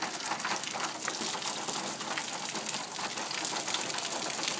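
Steady rain falling in a thunderstorm, a dense patter of many small drops.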